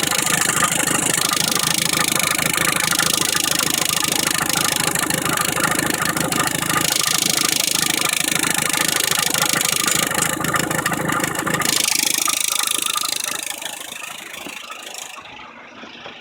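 Car engine idling with a fast, steady rattle from a failed timing belt tensioner. The running sound dies away about twelve seconds in.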